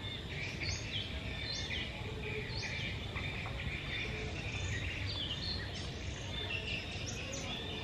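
Birds chirping in short high notes, several falling in pitch, repeating about once a second over a steady low background noise.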